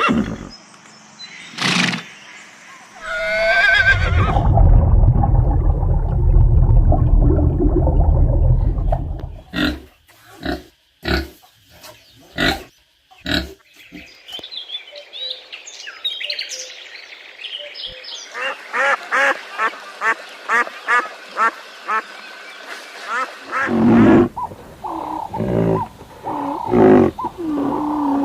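Different animal calls one after another: a long low call in the first few seconds, a series of sharp knocks, then rapid repeated higher-pitched calls, and low grunting calls near the end.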